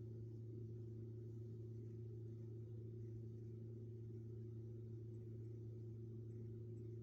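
A faint, steady low hum with a few overtones above it, unchanging throughout; nothing else stands out.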